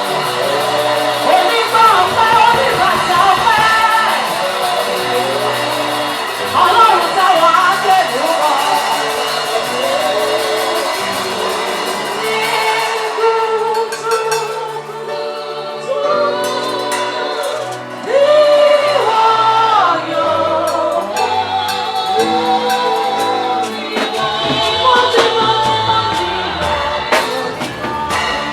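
Live gospel praise music: sung vocals over a band with keyboard and drums.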